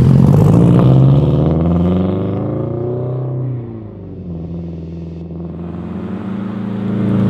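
Modified Subaru WRX's turbocharged flat-four accelerating hard away from close by, its pitch climbing, then dropping at a gear change about three and a half seconds in before rising again, quieter, as the car draws away.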